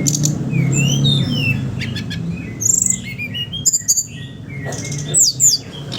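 Brown-chested jungle flycatcher (sikatan rimba dada coklat) singing in its twittering style: a run of varied chirps and clear rising whistled notes, with two loud sharp notes near the end. A steady low hum lies underneath.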